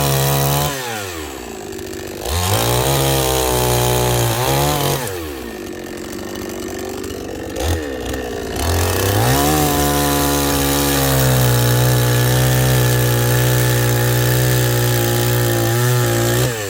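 Chainsaw cutting firewood: revved to full speed twice for a few seconds each, dropping back to idle between, then held at full speed for about seven seconds before dropping off near the end.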